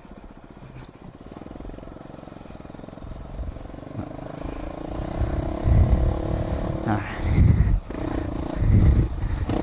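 Dual-sport motorcycle engine running as the bike is ridden up a trail, quieter at first, then louder with low rumbling surges from about halfway through.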